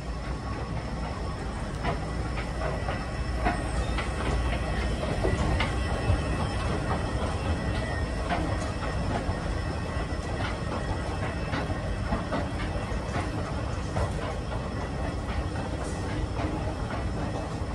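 Escalator running under a rider on the way down, a steady mechanical rumble with irregular clicking and clacking from the steps.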